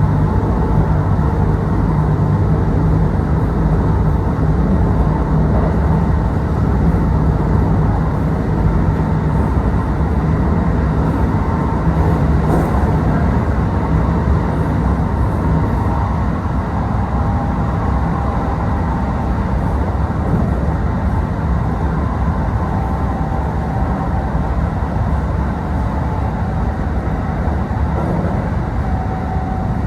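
Kintetsu Osaka Line local electric train running, heard from inside the passenger car: a steady low rumble of wheels on rail with a faint whine from the drive. A single click sounds about twelve seconds in.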